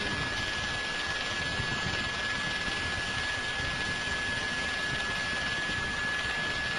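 Steady aircraft engine noise, an even rush with a constant high-pitched whine over it.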